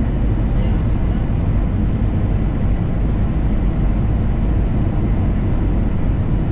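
Steady airliner cabin noise heard from a passenger seat: engine and airflow noise as a constant low rumble with no change in level.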